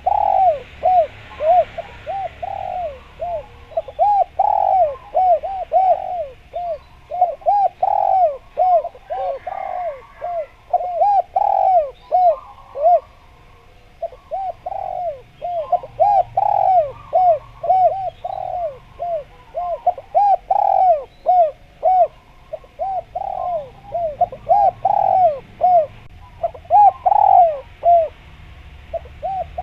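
Spotted doves (derkuku) cooing without let-up: a dense, rapid run of short rising-and-falling coos in long phrases, with brief pauses about halfway through and near the end.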